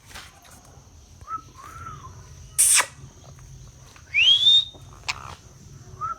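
Parrot calling: two soft short whistles, then a loud harsh screech about two and a half seconds in, and a loud rising whistle about four seconds in.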